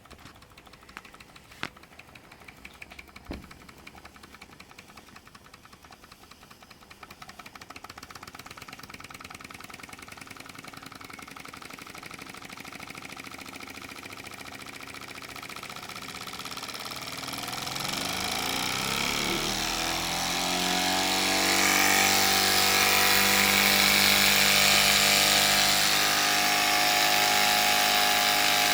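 Mamod SP6 miniature steam engine with a double-acting cylinder running with a rapid, even exhaust beat. It is faint at first, then grows much louder and rises in pitch as it speeds up about two-thirds of the way in, settling into a steady high-revving run.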